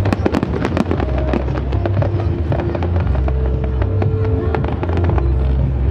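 Fireworks bursting and crackling in quick succession, densest in the first second, over music with a heavy bass line.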